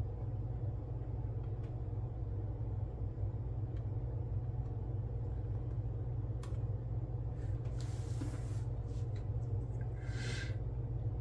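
Steady low background hum, with a few faint light clicks and two brief soft rustles, about eight and ten seconds in, from handling small pieces of foil and tools.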